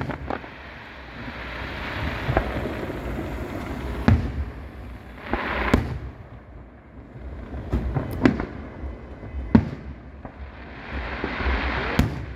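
Aerial fireworks display: about six sharp bangs from bursting shells, spread irregularly, with hissing, crackling rushes swelling up between them.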